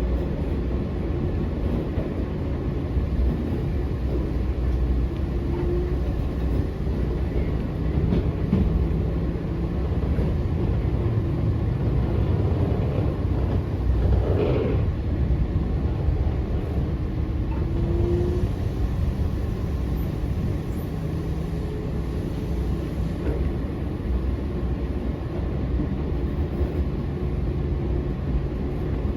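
Eizan Electric Railway 900 series 'Kirara' electric train heard from inside the car while running: a steady rumble of the train on the track, with a brief louder swell about halfway through.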